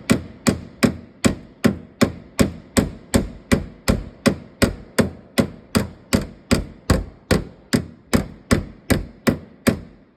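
A hand body hammer tapping steadily on the crumpled sheet metal of a rear-ended Mustang's body, about three blows a second, beating a bulged spot back down while the body is under pull. The tapping stops suddenly at the end.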